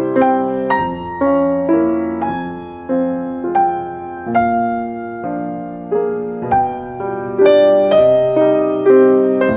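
Slow piano music: chords and single melody notes struck about once or twice a second, each ringing and fading before the next.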